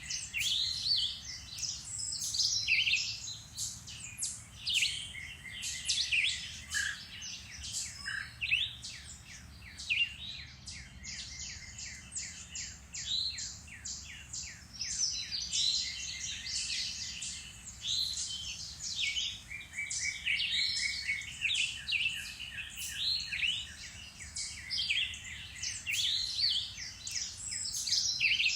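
Several songbirds singing and chirping at once, a dense chorus of overlapping trills and quick chirps, over a faint low rumble.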